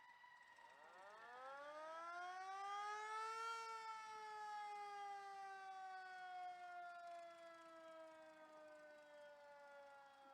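Fire truck siren winding up once, rising in pitch for a couple of seconds, then slowly coasting down in a long falling wail, the slow spin-down of a mechanical siren.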